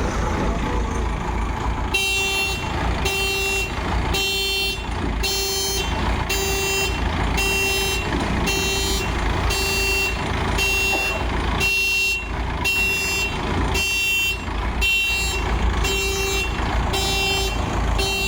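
Vehicle reverse-warning beeper sounding an even, pitched beep about once a second, starting about two seconds in, over the steady rumble of a running diesel engine.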